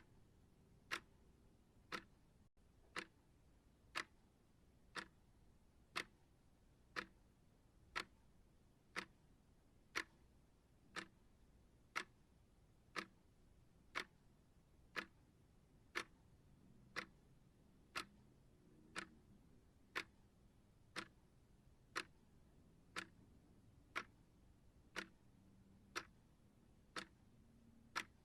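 Clock ticking at one tick a second, each tick a short sharp click over a faint background hiss.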